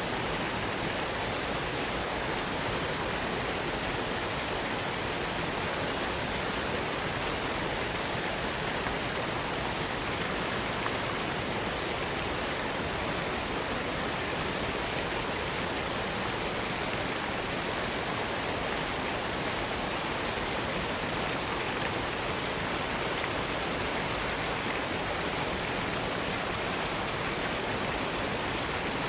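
Waterfall water rushing in a steady, unbroken roar of noise that holds an even level throughout.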